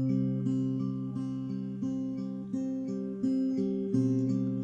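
Acoustic guitar playing a plucked, arpeggiated instrumental passage between sung lines, with no voice.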